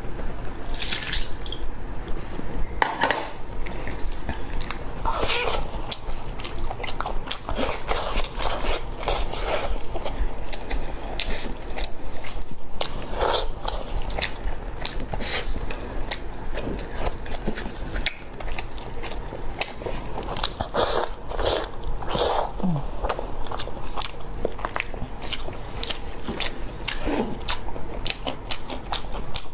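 Close-miked eating of meat: wet chewing, biting and lip smacks, with many short crisp clicks and occasional crunches.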